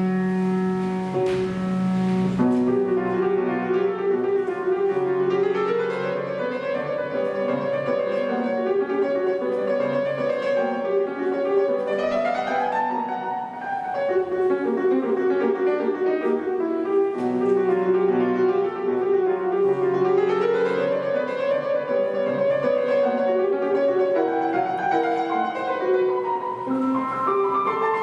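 Solo piano playing a classical piece, with quick rising runs repeated several times over sustained notes and changing chords in the bass.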